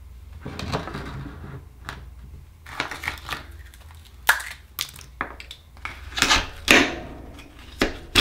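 Akoya oyster shells being opened and handled: irregular sharp clicks, cracks and short scraping noises of shell, loudest about four seconds in and again near the end.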